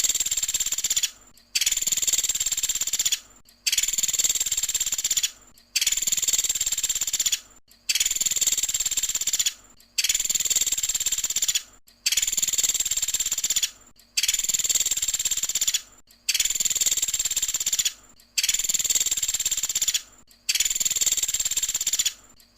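Pelatuk sampit (a small Indonesian woodpecker) calling in its 'tembakan' style: a loud, high-pitched rapid call about two seconds long, repeated about ten times at an even pace with short breaks in between.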